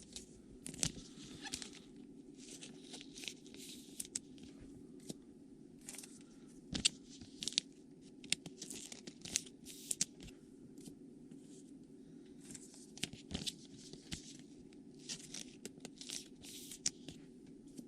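Plastic card sleeves and trading-card pack wrappers being handled: many short crinkles and rustles of plastic, with a few sharp clicks, over a steady low hum.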